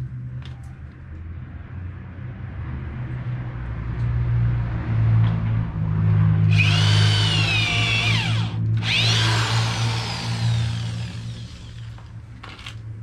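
Power drill running with a small bit, boring pilot holes in wood for nails too thick to hammer in directly. The motor hums steadily, and twice, about halfway in, the bit bites into the wood with a loud, high, wavering screech.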